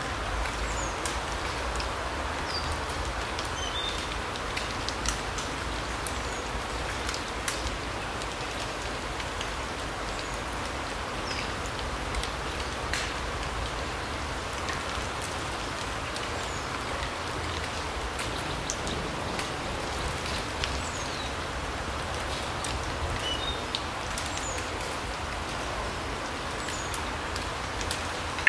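Larch forest ambience: a steady hiss with scattered sharp ticks like falling drops, and now and then a brief high bird chirp.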